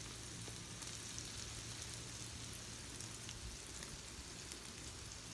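Hash browns, bacon and diced sausage frying in oil on a Blackstone flat-top griddle: a faint, steady sizzling hiss with occasional small pops.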